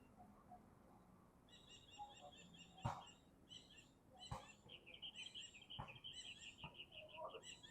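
A bird chattering in a fast run of high, repeated chirps, faint, starting about a second and a half in. A few sharp knocks stand out in the middle.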